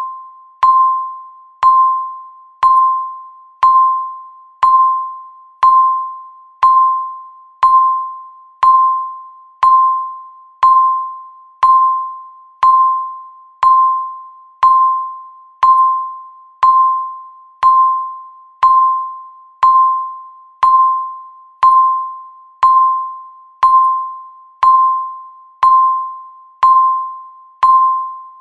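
Countdown timer's electronic beep sounding once every second: a single mid-pitched ding that starts sharply and fades before the next one.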